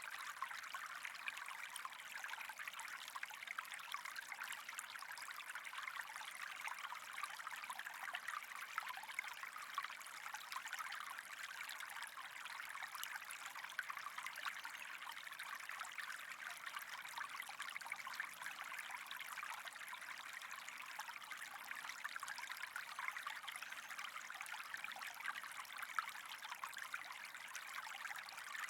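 Steady trickling water, an even fine crackle that does not change.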